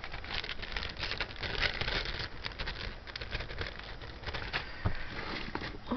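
Crinkling and rustling of small plastic bags being handled, a dense irregular crackle that is thickest in the first couple of seconds and then thins out.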